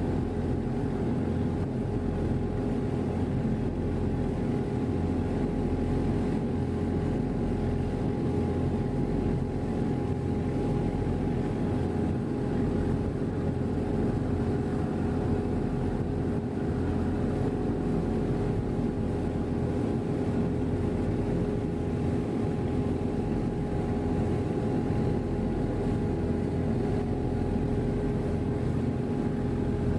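Passenger ferry's engines running steadily: an even low drone with a constant hum over it.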